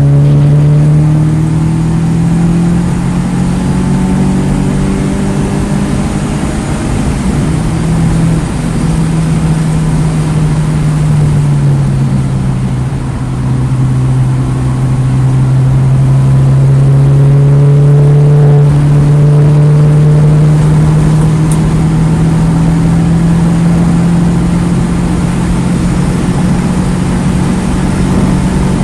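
2009 Mini Cooper S's turbocharged 1.6-litre four-cylinder engine running hard on track. Its pitch holds, drops about twelve seconds in, then climbs slowly for several seconds.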